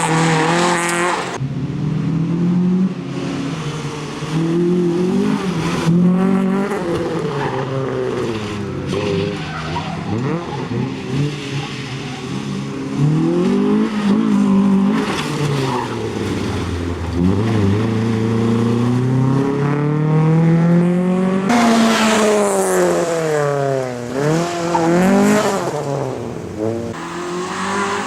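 Honda Civic rally car's engine revving hard: its pitch repeatedly climbs, then drops at gear changes and braking. Tyres hiss and squeal under hard cornering.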